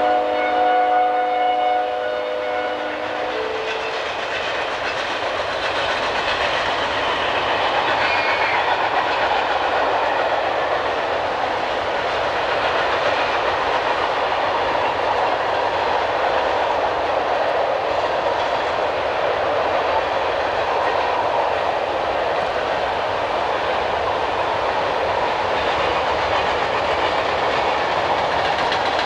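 Diesel freight locomotive's multi-tone air horn sounding a steady chord for a grade crossing, cutting off about three seconds in. Then the train's freight cars roll past with a steady clickety-clack of wheels on the rails.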